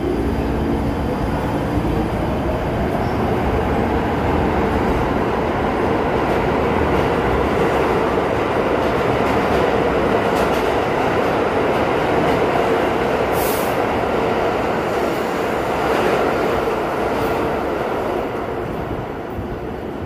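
New York City subway train moving through an underground station: a loud, steady rumble of wheels on rail, with a brief high-pitched sound about two-thirds of the way through. The rumble eases slightly near the end.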